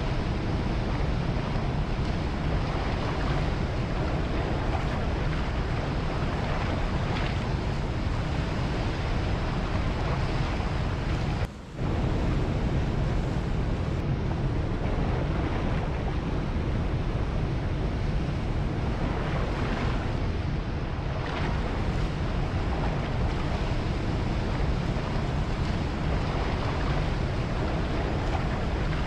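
Ocean surf with wind: a steady rushing wash of waves, heavy at the low end, dipping briefly about twelve seconds in.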